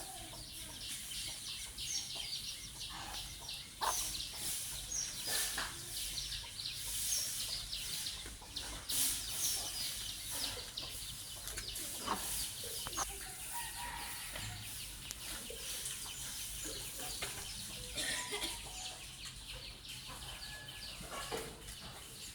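Chickens clucking on and off, with short high chirps of small birds scattered through, most often in the first half.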